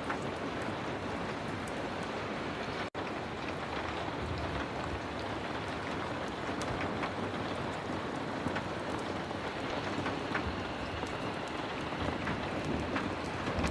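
Heavy rain falling steadily, a dense even hiss scattered with sharp little ticks. The sound cuts out for a split second about three seconds in.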